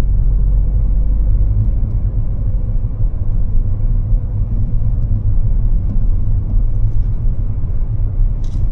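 Mazda3 driving, a steady low road rumble with a couple of faint brief ticks near the end.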